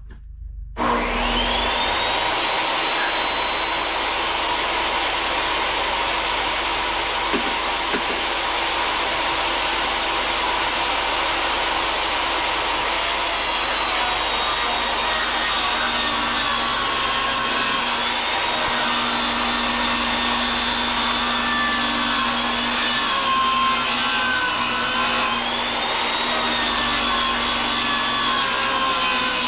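DeWalt table saw switched on, its motor whining quickly up to speed and running steadily. From about halfway through the whine dips and wavers as the blade is loaded cutting wood.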